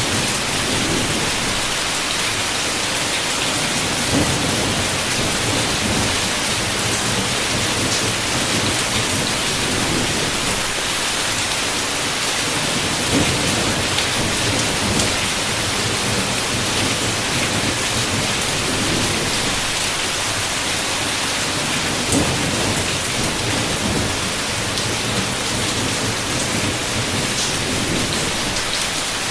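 Heavy, steady rain pattering, with low thunder rumbling in swells that come and go, and now and then a sharper drop hitting close by.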